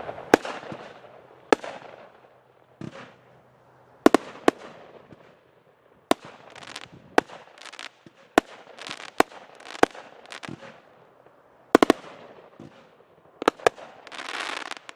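Pyro's Pride 'Ares' 200-gram fireworks cake firing: about a dozen sharp bangs spaced roughly a second apart, with hissing and crackling between them as the shells break, and a longer burst of hiss near the end.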